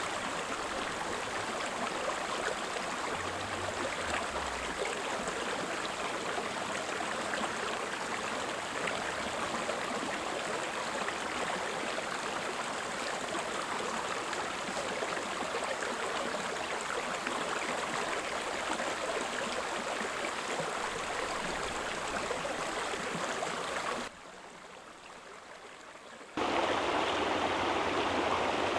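Creek water flowing steadily. The level drops sharply for about two seconds late on, then the water sound comes back louder.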